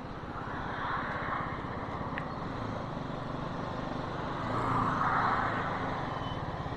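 BMW G 310 GS's single-cylinder engine running steadily under way, with a rushing noise that swells twice, about a second in and again around the five-second mark.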